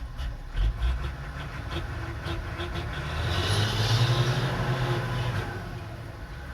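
Heavy dumper truck's engine running under strain, with a few knocks early on. It grows louder about three seconds in, then eases off again.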